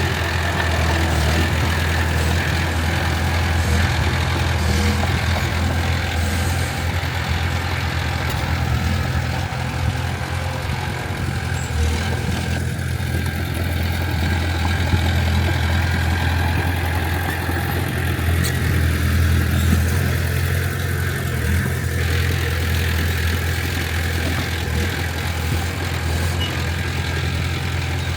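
Diesel engine of heavy earthmoving equipment running steadily, a continuous low hum that holds an even level throughout.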